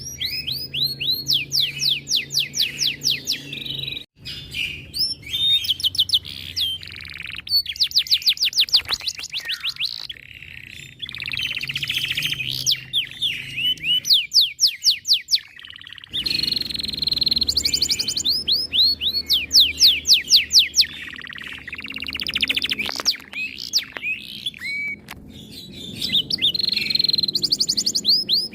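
Domestic canary singing: long rapid trills of repeated high, sweeping notes, in several phrases broken by short pauses.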